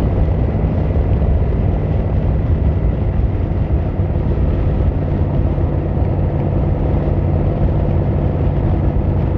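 Yamaha XVZ1300 Royal Star's V4 engine and exhaust running steadily with a low, even note.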